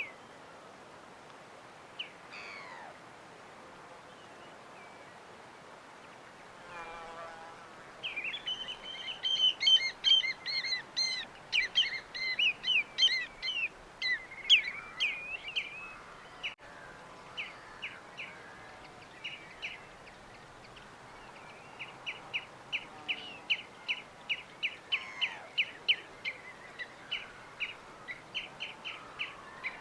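Small birds singing and chirping. There is a dense burst of song about a quarter of the way in, then scattered calls, then a quick run of repeated short chirps, several a second, over the last third, all over a faint steady hiss.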